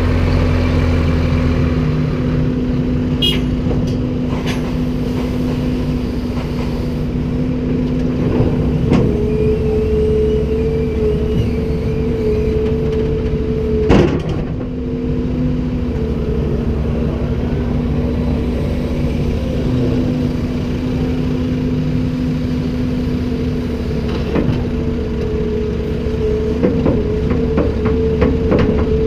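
Komatsu PC290-10 excavator's six-cylinder diesel running steadily under hydraulic load, its pitch shifting slightly now and then. Occasional sharp knocks and clanks from the machine's work, the loudest about 14 seconds in and a quick cluster near the end.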